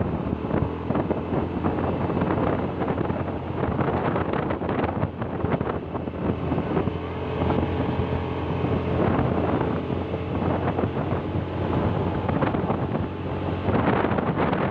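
A vehicle engine running on the move, with wind rushing over the microphone.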